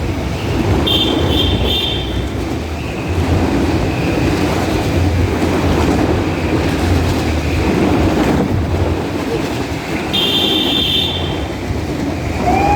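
Motorcycle engines running as riders circle the wall of a motordrome, the drone swelling and fading every second or two as the bikes pass. Short high-pitched beeps sound about a second in and again about ten seconds in.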